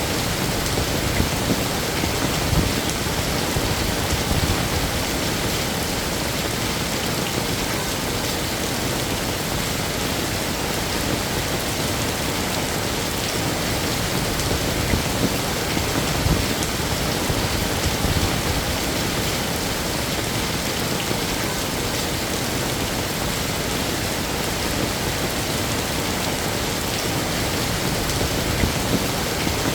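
Heavy rain falling steadily on a hard surface, a dense even hiss with scattered louder drops.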